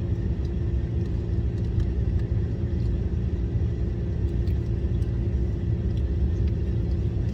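Steady low rumble of a car heard from inside the cabin, with a faint even hum over it.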